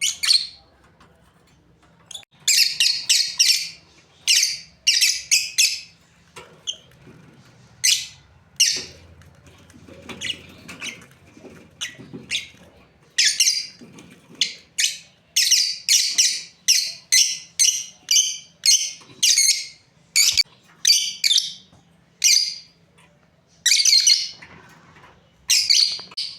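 Lovebirds calling: short, shrill chirps in quick runs and clusters, with a quieter pause about halfway through.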